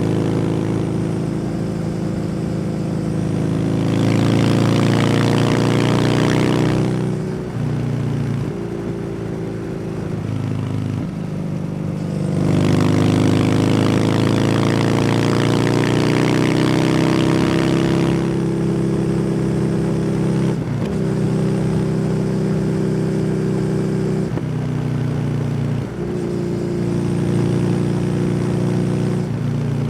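Kawasaki W800's air-cooled parallel-twin engine through an SC Project aftermarket exhaust, under way. The engine note climbs twice under throttle, about four and twelve seconds in. Short breaks where the pitch drops mark gear changes, with steadier cruising between them.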